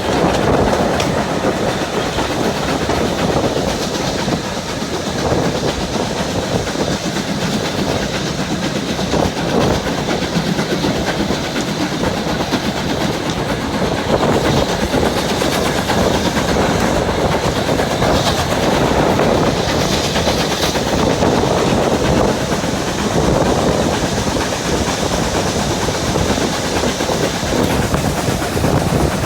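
Train running along the track, a steady loud clatter of wheels on rails.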